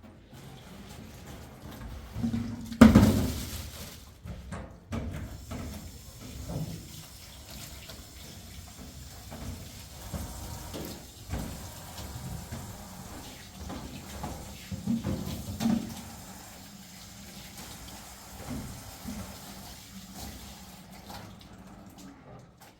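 Water running steadily, with knocks and clatter throughout and a loud thump about three seconds in.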